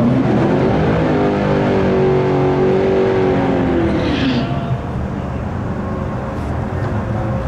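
Ford Mustang Mach 1's V8 revved up and held at high revs through a burnout on the drag strip's starting line, then dropping back about four seconds in. After that it runs on at lower revs.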